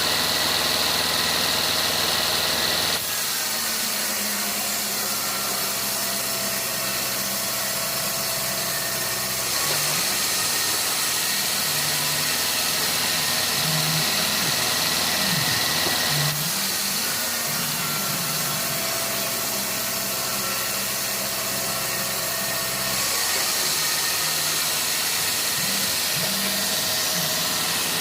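Sawmill machinery running steadily with an engine-like drone and hum. The sound shifts abruptly in level and texture several times, about every six or seven seconds.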